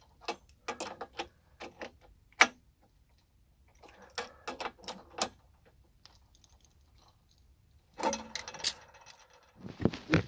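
Irregular sharp metallic clicks and clinks, with the loudest single click about two and a half seconds in, and a denser rattling clatter near the end.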